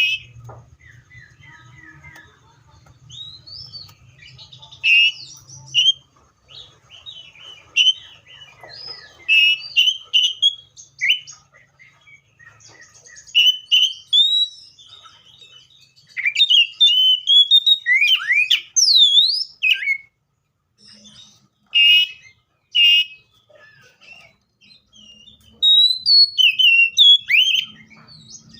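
Seychelles magpie-robin singing: varied whistled phrases with notes sliding up and down, delivered in bursts separated by short pauses.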